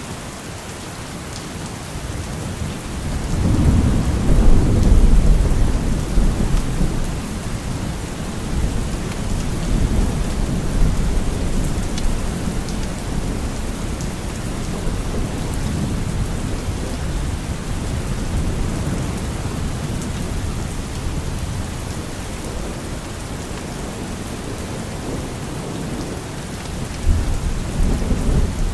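Steady rain falling, with rolling thunder: a deep rumble swells about three seconds in and dies away slowly, and another rumbles near the end.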